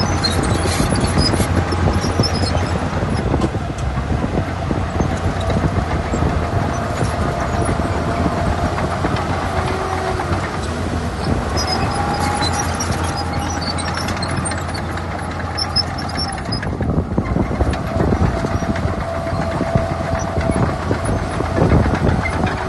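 Crawler bulldozer working, its diesel engine giving a steady low drone with a thin, wavering whine coming and going over it.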